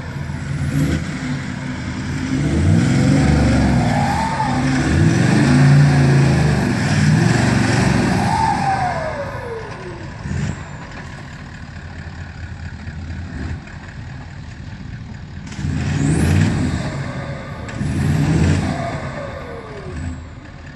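Off-road 4x4's engine revving under load in mud, in two surges that rise and fall in pitch: a long one from about two to nine seconds in and a shorter one near the end, with quieter running between.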